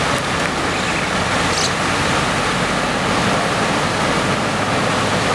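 Floodwater rushing, a steady, even noise without a break.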